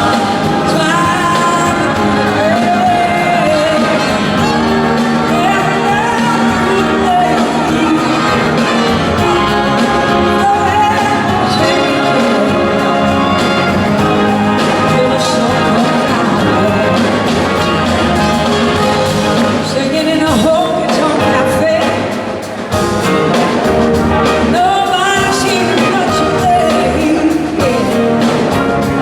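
A live rock and soul band playing a song, with singing over guitar, bass and drums. The level dips briefly about 22 seconds in.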